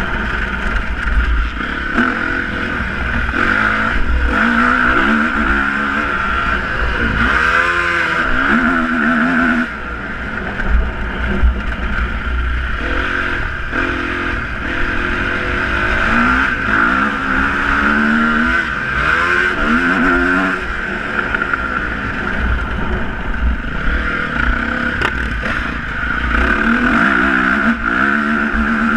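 Motocross motorcycle engines revving, their pitch rising and falling again and again as the bikes accelerate and ease off.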